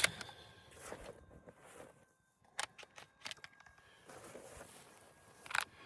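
Faint handling noise from a Benelli M2 20-gauge semi-automatic shotgun: a few short sharp clicks and some rustling as the action is worked to check the chamber.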